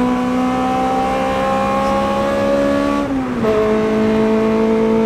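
1998 Honda Civic's race-built 1.8 L B18C four-cylinder engine, from an Integra Type R, screaming at high revs in VTEC under hard acceleration. The pitch climbs steadily, drops sharply at a gear change about three seconds in, then climbs again.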